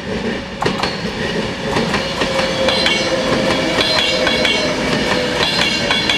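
Virgin Class 390 Pendolino electric train passing close by, its wheels clicking rapidly over the rails, with a steady whine.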